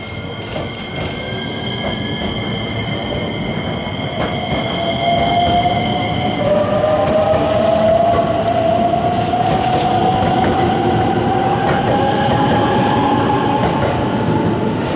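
JR West electric train accelerating through the station, its traction motor whine rising steadily in pitch over the rumble and clatter of the wheels on the rails.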